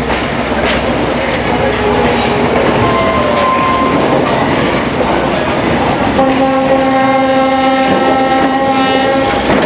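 Passenger coaches rolling past close by, their wheels clacking over the rail joints. About six seconds in, a locomotive horn sounds one steady note for about three seconds.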